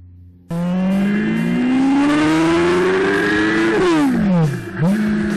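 Sport motorcycle engine heard from on board, starting abruptly about half a second in. The revs climb steadily for about three seconds, fall away sharply, then pick up again and hold steady.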